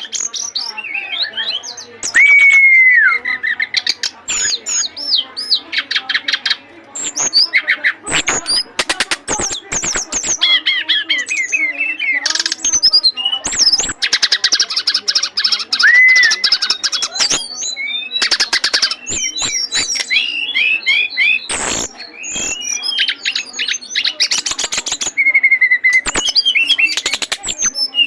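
Songbirds singing without pause: a dense, varied song of rapid chirps, trills and whistled sweeping notes.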